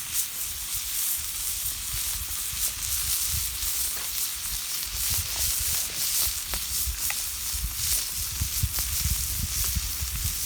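Food sizzling in a pan over a campfire, a steady hiss with small crackles and pops throughout, over a low rumble.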